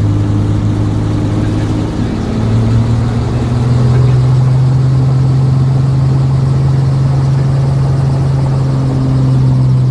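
Helicopter running, heard from inside the cabin: a loud, steady low drone that steps up in pitch about two seconds in and then holds.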